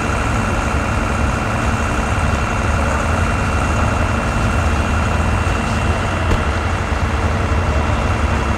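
Steady low rumble of a vehicle engine idling close by, with a constant hum and whine of several fixed tones over it and no change in speed.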